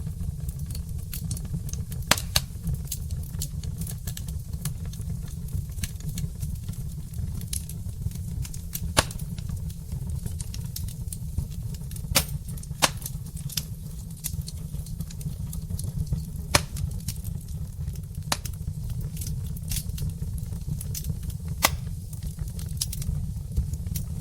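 Wood fire burning in a fireplace: irregular small crackles with a handful of sharper, louder pops, over a steady low rumble.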